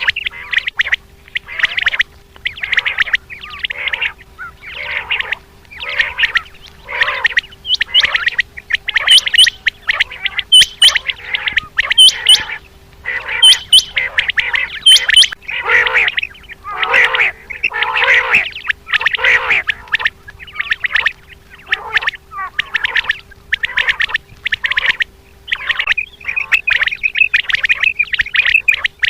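Common quail calling over and over in short, quick calls, about one or two a second, with a few sharper high clicks in the middle. A faint steady hum runs underneath.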